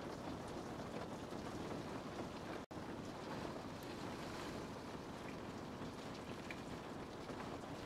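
Steady rain, a continuous hiss with faint scattered drop ticks. It cuts out completely for an instant about two and a half seconds in.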